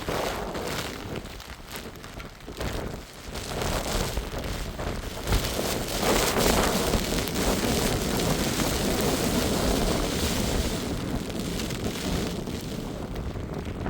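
Heavy rain falling, with wind, growing louder about four seconds in and easing off near the end.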